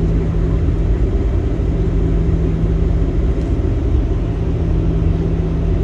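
Steady low rumble of an airliner heard from inside the passenger cabin, with a constant hum underneath.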